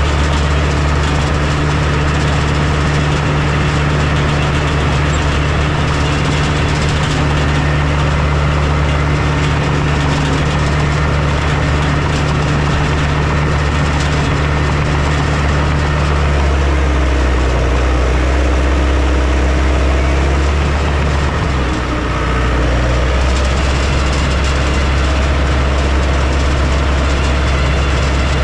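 Heavy diesel construction machinery running steadily, with a deep engine hum that shifts to a lower note a little over halfway through.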